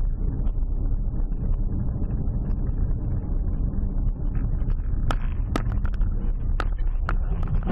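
Steady low rumble of a car on the road, with engine and tyre noise recorded through a dashcam's muffled microphone. Several short sharp clicks come in the last few seconds.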